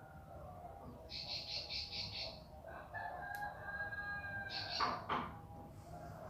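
Bar-winged prinia singing: a trill of high chirps repeated about four times a second, and later a sharp burst of chirps with a quick falling note. A lower drawn-out call sounds in the background about three seconds in.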